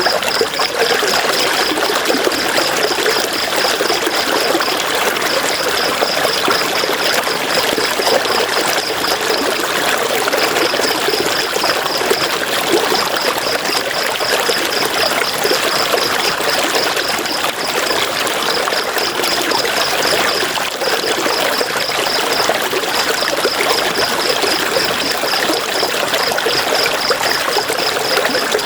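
River water rushing and splashing over rocks, a steady, even sound. Over it, a high, rapid pulsing call repeats in runs with short breaks between them.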